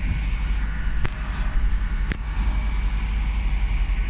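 Steady low rumble of diesel trains idling at the station platforms, with two short clicks about a second apart.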